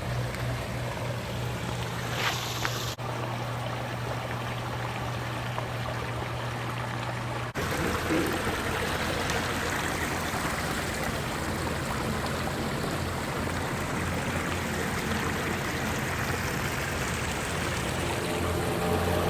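Water steadily running and splashing down a garden waterfall, with two abrupt changes in the sound about three and seven seconds in.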